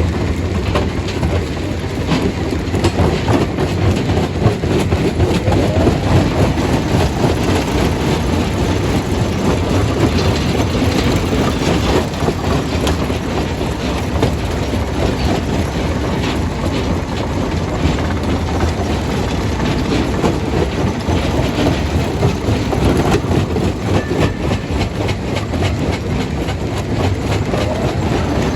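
Primary jaw crusher running under load: a steady heavy rumble with dense, continual cracking and clattering of rock being broken.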